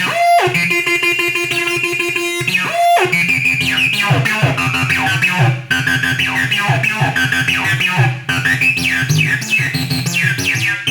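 Behringer TD-3 bass synthesizer playing an acid line. It holds sliding notes for the first few seconds, then switches to a fast sequence of squelchy notes, each with a quickly falling filter sweep.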